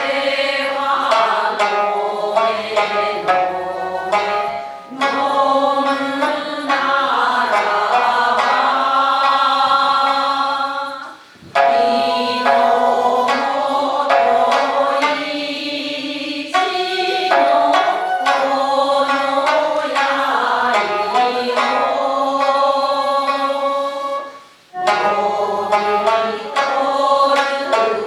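Japanese min'yō folk song sung over plucked shamisen accompaniment, with long, ornamented vocal lines that break off briefly between phrases three times.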